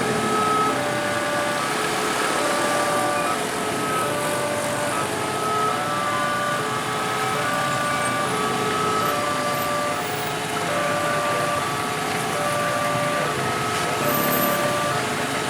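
Railway level-crossing warning alarm sounding a repeating electronic two-tone chime, alternating high and low notes about once or twice a second, over the steady noise of road traffic.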